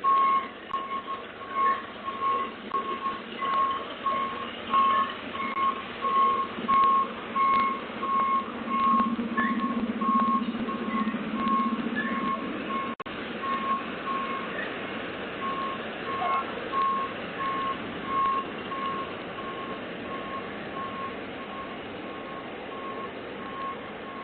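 Truck backup alarm beeping steadily at about one beep a second, with the diesel engine running underneath; the beeps grow fainter in the second half as the truck reverses.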